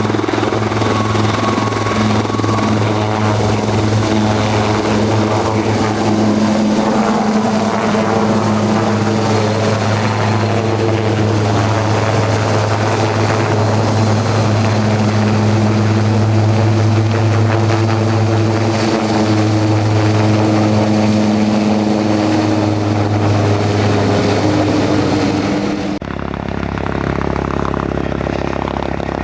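Helicopter running close by: a steady rotor thrum with a thin high whine. Near the end it cuts abruptly to a quieter, lower engine sound.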